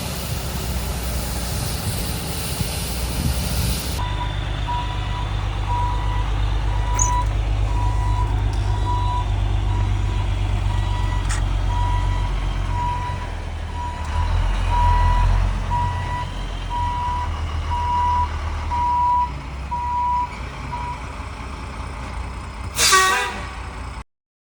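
Truck engine running at a low rumble while its reversing alarm beeps about once a second. Near the end there is a short loud burst, like an air brake hiss.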